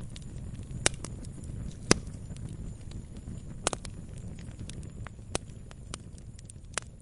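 Wood campfire crackling: sharp, irregular pops every second or two, the loudest about two seconds in, over a low steady rumble.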